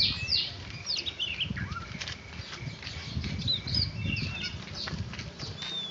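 Oriental magpie-robin (kacer) giving short, scattered chirps and whistle notes, over wing flapping and rustling.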